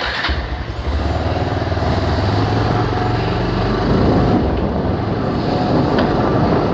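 Bajaj Pulsar 220F motorcycle's single-cylinder engine running, starting with a short burst at the very beginning. Its steady low note shifts about four seconds in.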